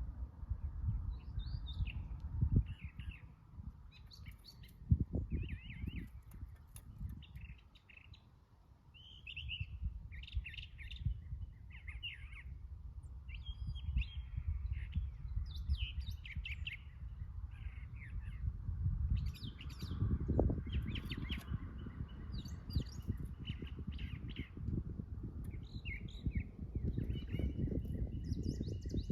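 Backyard songbirds chirping and twittering, many short high calls throughout, over a low rumble with a couple of brief thumps in the first few seconds.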